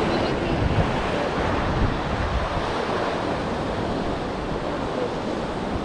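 Sea waves washing onto the beach in a steady rush, with wind buffeting the microphone.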